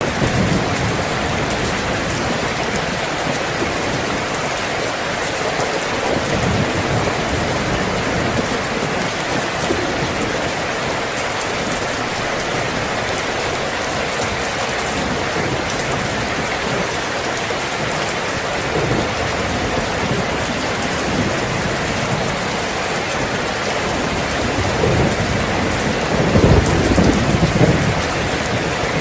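Steady rain falling on surfaces, a dense even hiss. A low rumble of thunder swells up a few seconds before the end.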